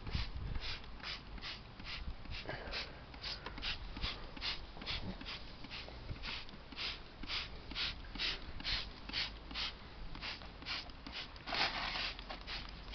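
Hand trigger spray bottle squirting engine degreaser in quick repeated pumps, about two to three hissing squirts a second, with one longer spray near the end.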